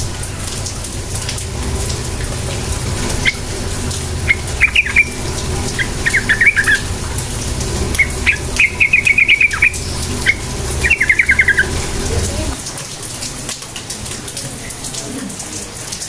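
Yellow-vented bulbul calling in short bursts of rapid chattering notes, four or five phrases in quick succession. Under them runs a steady low rumble that stops suddenly about three-quarters of the way through.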